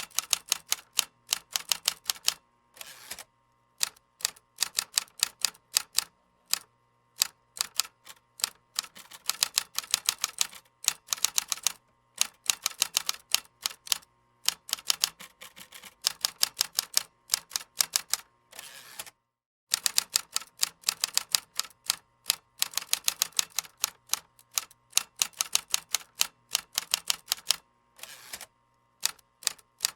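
Computer keyboard typing: rapid, sharp keystroke clicks in bursts, broken by short pauses, including a brief full stop a little under two-thirds of the way through.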